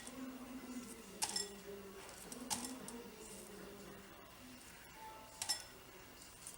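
A few faint clinks of a utensil against a dish, single sharp taps a second or more apart.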